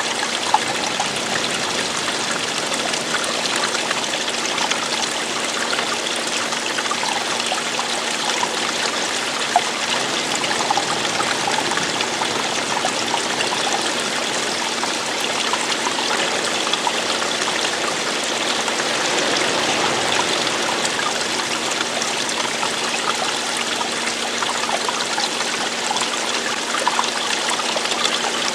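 Running water flowing and splashing in a steady rush with small trickling splashes, like a stream or small waterfall.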